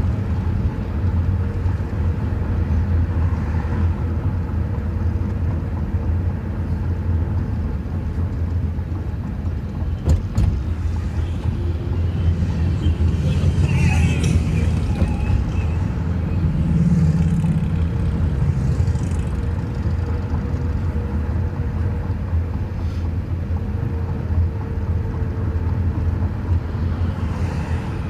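Steady low engine and traffic rumble heard from inside a slowly moving minivan with its windows partly down, with motorcycle engines running in the street around it. The rumble swells louder about halfway through, as a nearby motorcycle passes.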